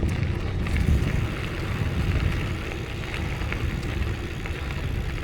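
Steady low wind noise buffeting the microphone while riding a bicycle.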